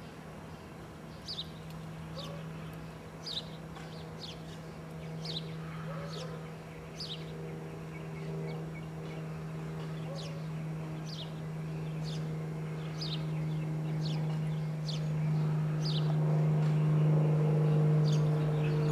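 A bird chirping over and over, one short falling note about once a second. Beneath it runs a steady low drone, a hum with a few overtones, that grows louder toward the end.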